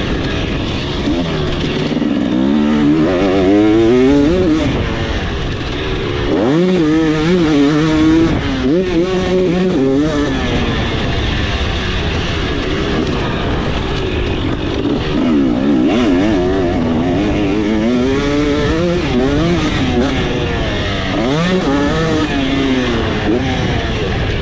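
KTM 300SX single-cylinder two-stroke dirt-bike engine ridden hard, its pitch repeatedly climbing and dropping as the throttle is opened and rolled off.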